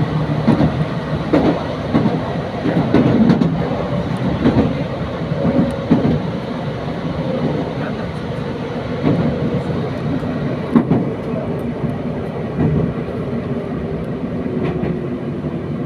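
Interior of a moving passenger train: steady rumble of wheels running on the rails, with irregular thumps and clatter as the wheels cross rail joints.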